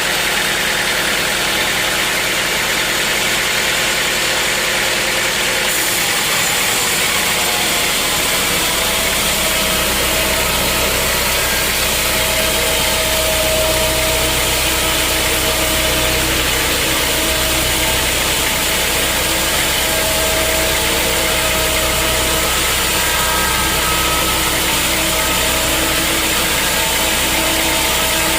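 Sawmill machinery running steadily in a continuous loud mechanical drone; a deeper low hum joins about eight seconds in.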